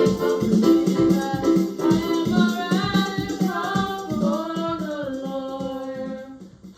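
Worship song: a voice singing over a rhythmically strummed guitar. About halfway through the strumming fades out, and the singing carries on in long held notes.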